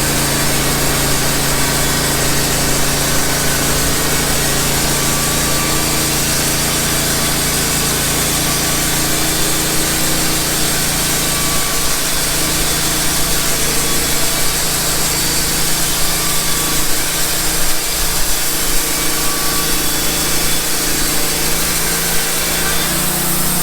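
Wood-Mizer band sawmill running steadily, its engine under load as the band blade saws through a pine log.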